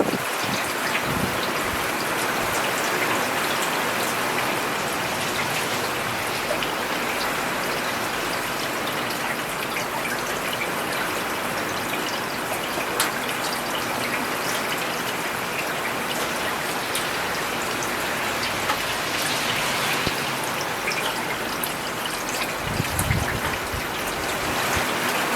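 Steady rain falling on a city road: a dense hiss of rainfall with individual drops ticking through it, and a brief low rumble near the end.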